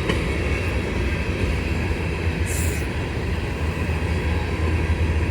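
CSX freight train rolling by on the track, a steady rumble of wheels and cars. A brief hiss about two and a half seconds in.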